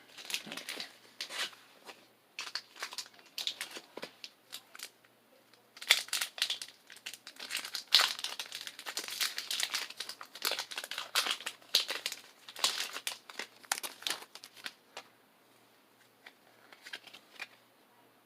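Foil wrapper of a Pokémon booster pack crinkling and tearing as it is opened: a long run of short crackles that thins out in the last few seconds.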